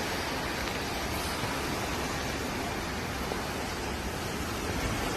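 Tropical-storm wind and rain, a steady, even rush of noise with no let-up.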